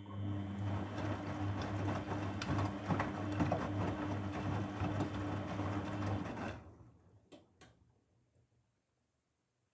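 Grundig washing machine running with a steady hum for about six and a half seconds, then stopping, followed by two short clicks.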